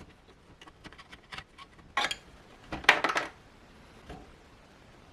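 Small hard objects, plastic parts, clicking and clattering as they are handled and set down: a run of light clicks, then louder clatters about two and three seconds in and a faint knock near the end.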